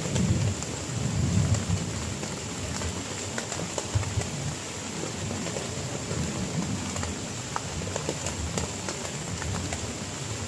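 Heavy rain falling steadily: an even hiss with scattered sharp drop ticks, under an uneven low rumble that swells loudest in the first couple of seconds.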